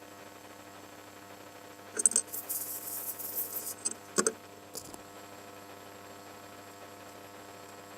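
A few sharp metallic clinks of small metal parts or tools being handled, with a short high hiss between them, over a steady electrical hum.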